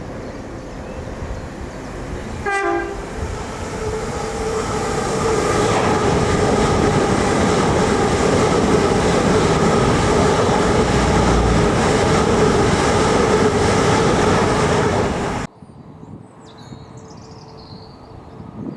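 A train sounds a short horn blast, then passes through the station with a steady engine note over rolling rail noise. The sound cuts off abruptly about three seconds before the end, leaving quiet outdoor ambience.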